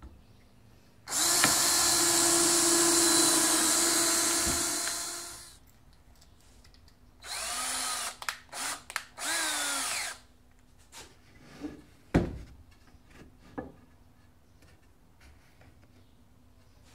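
Power drill running in one long burst of about four seconds that winds down, then several short trigger pulls with the motor speeding up and slowing. A few sharp knocks follow near the end.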